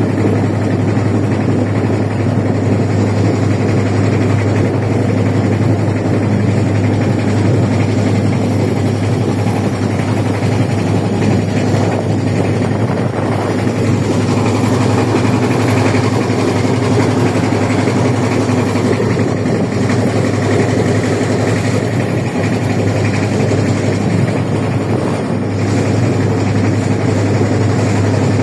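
Motorboat engine running steadily, a low, even drone with no change in speed.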